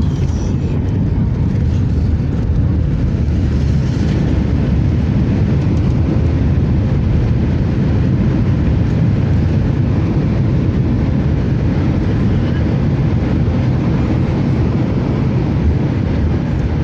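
Boeing 737 landing, heard from inside the cabin: a loud, steady low roar of engines, airflow and rolling gear.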